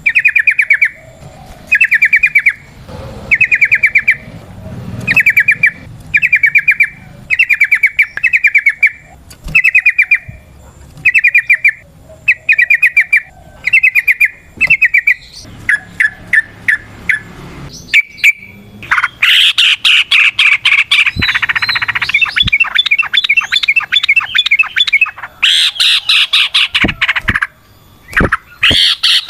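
Yellow-vented bulbul (trucukan) calling in short, rapid chattering bursts about once a second. About two-thirds of the way in, the bursts give way to a louder, near-continuous fast chatter.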